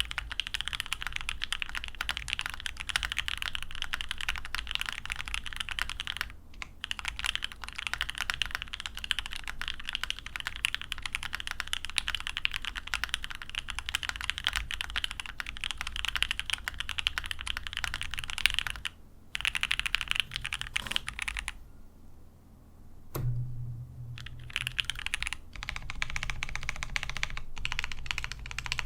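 Fast, continuous typing on a GOK 7V gasket-mount mechanical keyboard with a polycarbonate plate, lubed H1 switches and EPBT PBT keycaps, with case foam fitted and no tape mod. The keystrokes pause briefly a few times, with a longer lull about two-thirds of the way through.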